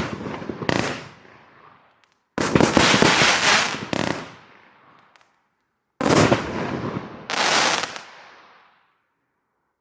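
A 51-shot, 30 mm firework cake firing its final shots: sharp reports in three groups, each followed by a fading crackling tail. The loudest group comes a little past two seconds in, and the firing ends shortly before the last second.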